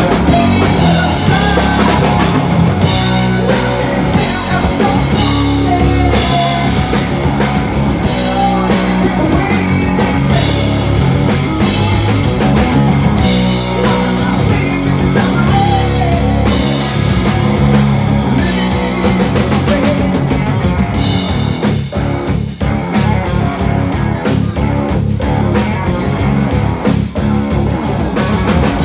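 Rock band playing live on electric guitar, bass and drum kit. From about twenty seconds in, the drums switch to rapid, even hits.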